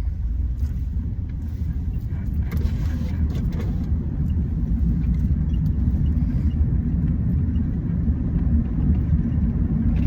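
Steady low rumble, with no clear pitch or rhythm, holding level throughout.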